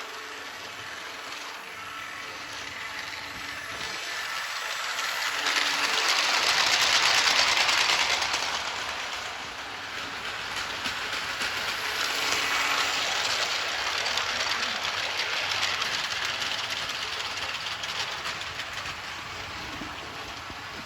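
Battery-powered Märklin My World toy train running along its plastic track, with a steady whirring rattle of motor and wheels that grows louder twice as it passes close by, about seven seconds in and again around thirteen seconds.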